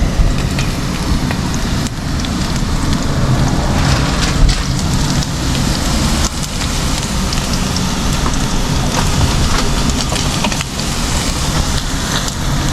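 Spam frying in a pan, sizzling steadily with scattered crackles and pops, over a low steady rumble.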